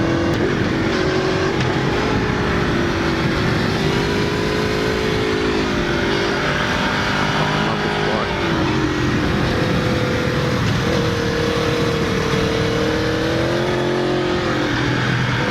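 Aprilia Tuono V4's V4 engine through an Akrapovic exhaust, ridden hard through bends: the engine note climbs and drops several times with throttle and gear changes, over a steady rush of wind.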